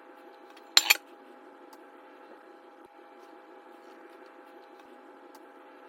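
Cast iron cookware clanking: two quick metallic knocks close together about a second in, with a short ring. A faint steady hum runs underneath.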